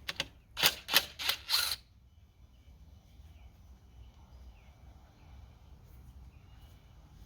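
Socket ratchet wrench clicking in four or five quick strokes in the first two seconds, loosening a front fender bolt on a motorcycle; after that only faint bird chirps.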